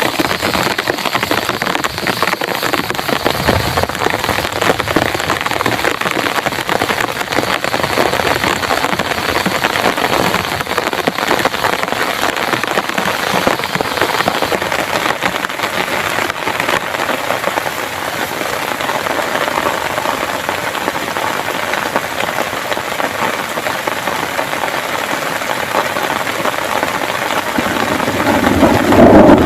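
Heavy rain pouring steadily, a dense patter of drops on a surface. Near the end a low rumble of thunder begins to swell.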